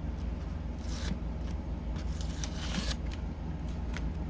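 Painter's tape being pulled off the roll: two tearing noises, a short one about a second in and a longer one before the three-second mark, over a steady low hum.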